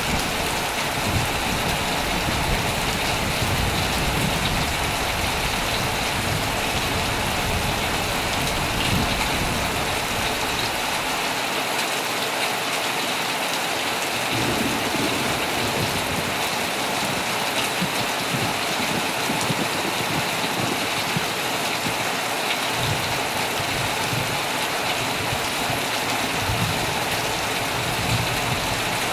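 Heavy rain falling steadily on a tent, with a low rumble of thunder coming and going underneath.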